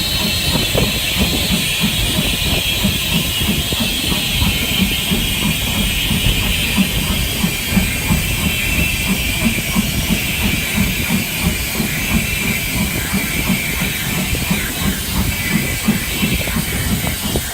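Stanier 8F two-cylinder steam locomotive working along the line. Its exhaust beats come regularly at about three a second over a steady hiss.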